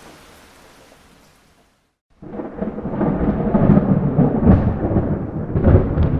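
Steady rain hiss fades out, and after a moment of silence a loud thunderclap breaks in about two seconds in. It rolls on as a deep, rumbling peal with sharp crackles.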